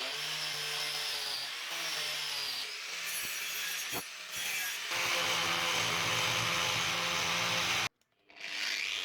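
Angle grinder with an attachment cutting into wood, its motor running steadily under load with rasping and grinding noise that shifts from moment to moment. It cuts out briefly near the end.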